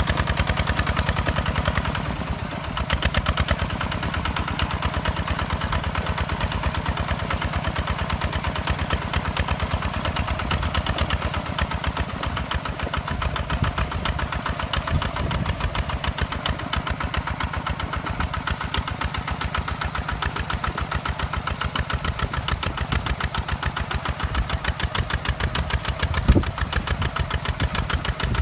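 Two-wheel walking tractor's single-cylinder engine running steadily with a fast, even chugging beat. A single sharp knock stands out near the end.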